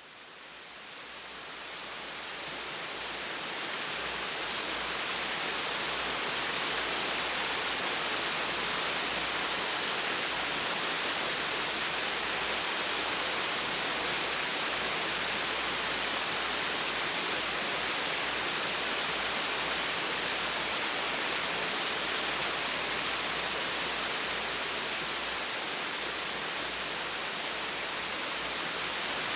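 Gentle waterfall, water splashing and rushing steadily. It fades in over the first few seconds, then holds at an even level.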